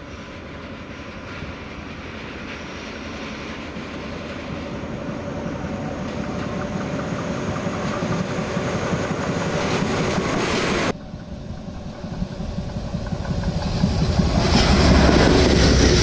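Diesel-hauled train, a DE10 locomotive with a 12-series passenger coach, running along the line and growing steadily louder as it approaches, with its wheels running on the rails. About eleven seconds in the sound cuts off abruptly, then a second pass builds up louder still.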